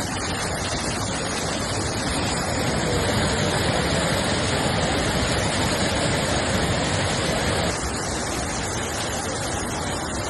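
Torrential rain pouring down as a steady hiss. It grows louder about two and a half seconds in and eases back about eight seconds in.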